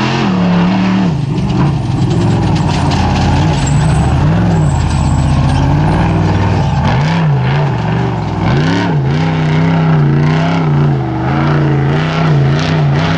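Off-road race vehicle engine running hard, its pitch swinging up and down again and again as the throttle is worked.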